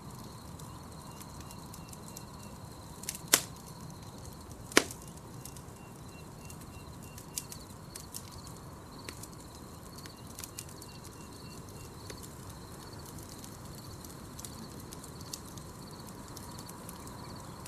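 Campfire crackling, with scattered small snaps and two loud pops about a second and a half apart near the start. Behind it, night insects keep up a steady high trill.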